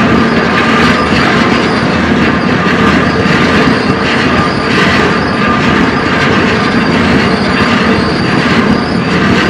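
Freight train running on the rails: a loud, steady noise of rolling wheels and rattling cars, with faint steady wheel squeal running through it.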